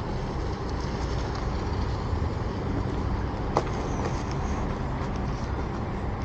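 Steady road traffic noise, a continuous low rumble, with a single sharp click about three and a half seconds in.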